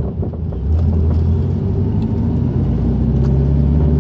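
Volkswagen Fusca (Beetle) air-cooled flat-four engine running while driving, heard from inside the cabin. The engine note drops briefly just after the start, then holds steady.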